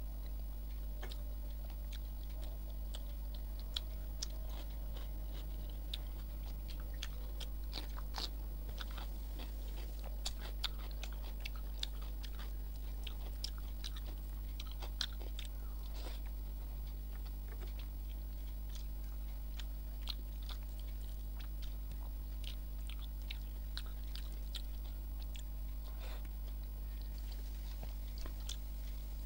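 Close-miked eating sounds: chewing and biting with many short, sharp mouth clicks and small crunches as rice and fried raw-banana fritters are eaten by hand, over a steady low hum.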